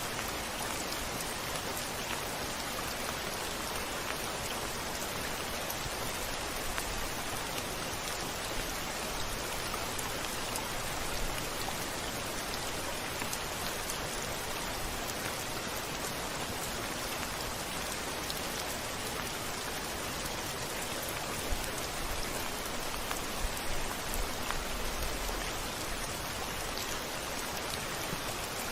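Steady rain falling on a window, a dense even hiss with scattered small drop ticks. A brief low rumble of distant thunder comes in near the end.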